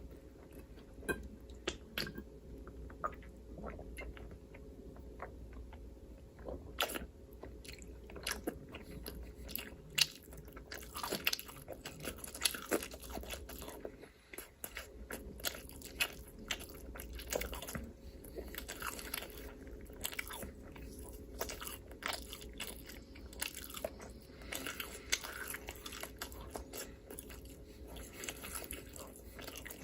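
Close-miked chewing and biting: irregular crunches and wet clicks of a mouth eating food, several a second at times.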